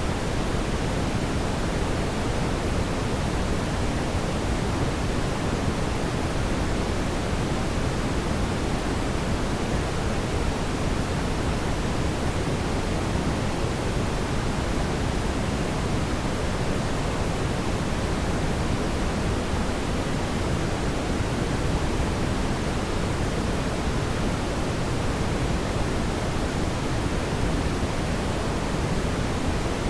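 Fireplace ambience track as a steady, even rushing noise, fuller in the low end, with no distinct crackles or pops.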